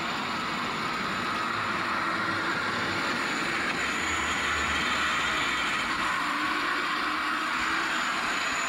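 Children's 12-volt electric quad bike rolling slowly, its two small electric motors and gearboxes whining steadily over the hiss and rumble of its tyres.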